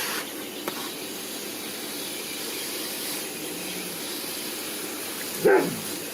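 Garden hose spray nozzle jetting water onto a window air conditioner's coils to rinse out foamed coil cleaner and dirt: a steady hiss. About five and a half seconds in there is one brief, loud sound that falls in pitch.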